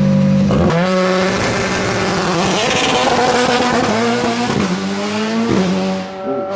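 Hillclimb race car's engine held at steady launch-control revs, then launching off the line about half a second in and accelerating hard, its pitch climbing and dropping through several quick upshifts, with some tyre squeal.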